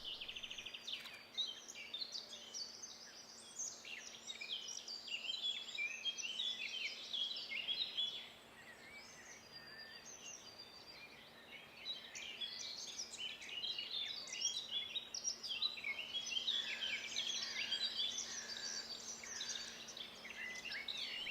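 Several wild birds singing at once, overlapping chirps and trills. The song thins out for a few seconds near the middle, and a faint steady low hum runs underneath until near the end.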